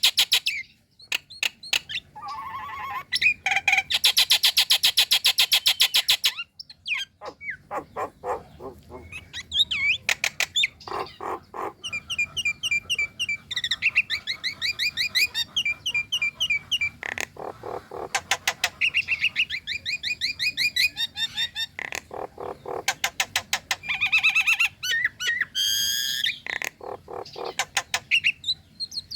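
Female Nias hill myna calling: loud, fast rattles, then rapid runs of short chirping and whistled notes, repeated in bursts with short pauses.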